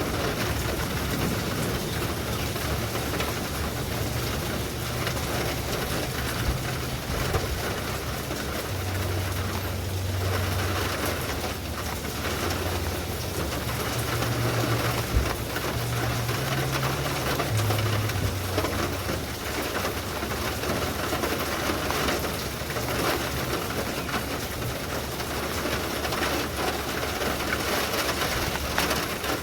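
Steady heavy rain falling, with a low hum under it through the first half that shifts in pitch and then fades out.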